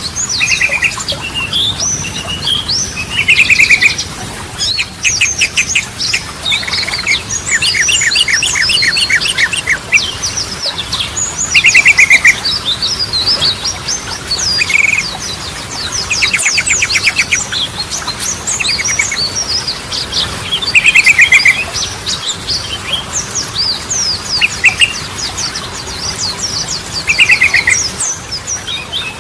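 Yellow-vented bulbul singing a busy, unbroken run of quick chirps and short rattling trills, the loud trill bursts coming every few seconds.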